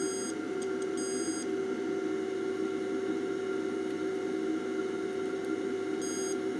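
Multimeter continuity tester giving short high-pitched beeps: one right at the start, a longer one about a second in, and two near the end. Each beep signals a connection between the probed points. A steady hum runs underneath.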